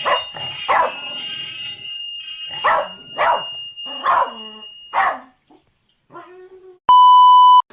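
A dog barking about six times in short, separate barks, over a steady high-pitched tone. Near the end comes a loud electronic beep lasting under a second.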